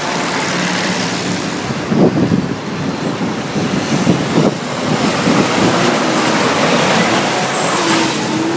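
Tractor engines running as tractors drive past on the road, a dense rumbling with a few louder bursts. A thin high whine comes in during the second half.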